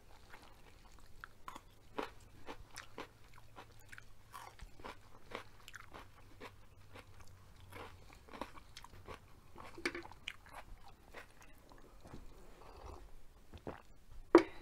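Someone chewing and biting a crisp raw yellow bell pepper strip close to the microphone: repeated crunches throughout, with one sharp, louder click near the end.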